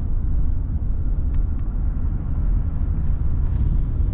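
Low, steady rumble of a vehicle driving along a road: engine and road noise heard from inside the cab, with a couple of faint ticks.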